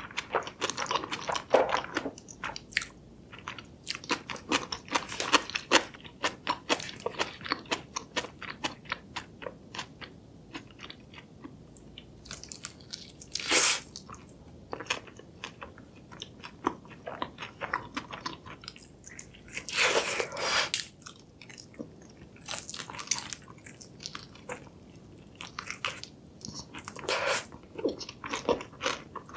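Close-up mouth sounds of eating: chewing black bean noodles, then biting into and chewing a sauce-glazed fried chicken drumstick, with many small crackles and wet clicks. A loud bite comes about 13 seconds in, and another burst of bites comes around 20 seconds.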